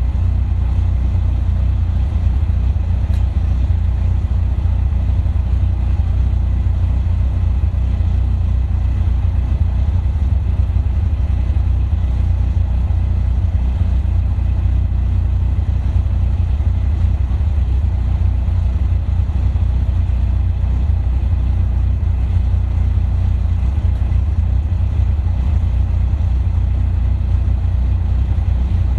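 Caterham sports car's engine idling steadily, a constant low rumble with no change in revs.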